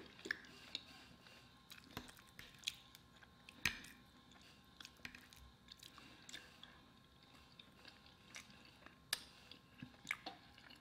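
Soft, close-miked chewing of a mouthful of home-cooked food, with scattered faint mouth clicks and smacks, a few sharper ones about 2, 4 and 9 seconds in.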